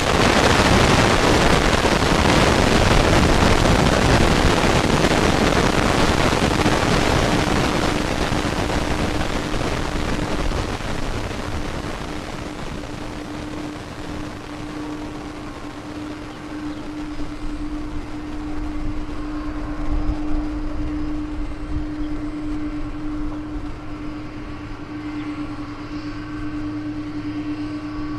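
Boeing 767-300 jet engines: a loud rushing roar that fades over about ten seconds as the airliner passes, leaving a steady low engine hum.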